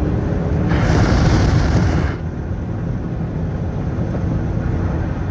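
Straight-piped Dodge Charger R/T's 5.7-litre HEMI V8 exhaust rumbling from inside the cabin. A louder rush comes in about a second in and cuts off after about a second and a half, leaving the steadier low drone.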